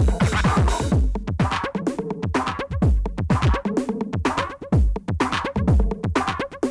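1990s experimental techno: drum-machine beats with deep kick drums that fall in pitch and sharp clicking percussion in a busy, broken rhythm. The high hiss layer drops out about a second in, leaving choppier hits.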